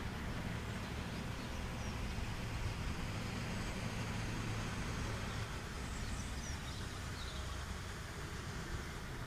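Steady outdoor background rumble and hiss, with a few faint, short, high chirps about six to seven seconds in.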